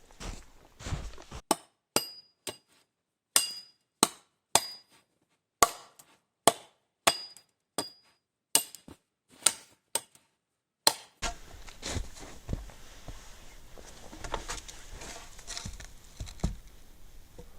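An axe striking wood about sixteen times, roughly two blows a second, several of them with a short metallic ring. After about eleven seconds the blows stop, and rustling and handling noises follow.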